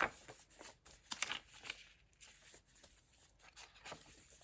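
Paper pages of a handmade junk journal being turned and handled, giving a series of short, faint rustles and crinkles.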